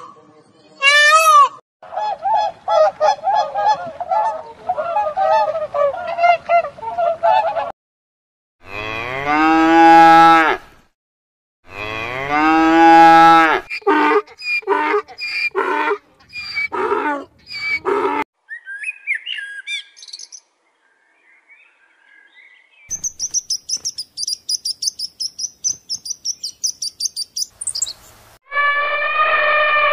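A run of different animal calls, one after another. Loud peacock calls at the start, then a series of horse calls in the middle, rapid high-pitched meerkat chirping near the end, and an elephant trumpeting begins just before the end.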